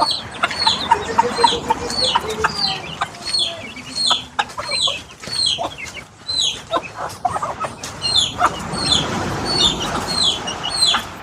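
Chickens: a steady run of short, high, falling peeps, about two a second, typical of chicks, with lower clucking in the first couple of seconds.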